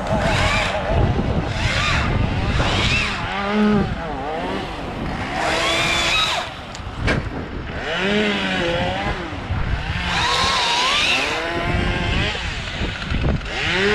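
Chainsaw cutting branches, revving in repeated short bursts, each rising and falling in pitch.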